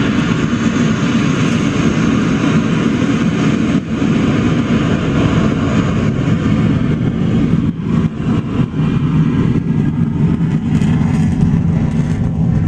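Engines of a formation of aircraft flying low past the crowd: a loud, steady engine noise.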